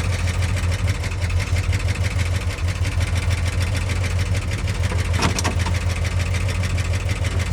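1976 Ford F-250's 390 FE V8 running steadily at low speed through new headers and exhaust, an engine with low compression on two cylinders. A brief knock sounds about five seconds in.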